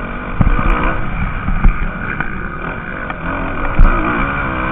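Motocross bikes racing, engines revving up and down as they take the track, with a few sharp low thumps, the loudest near the end.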